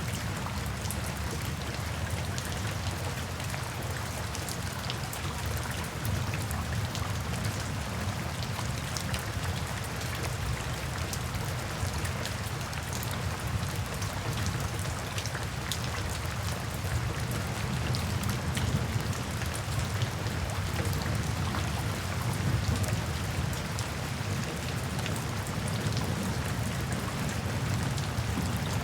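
Steady rain falling in a forest, a continuous hiss with many fine drop ticks and a low rumble beneath.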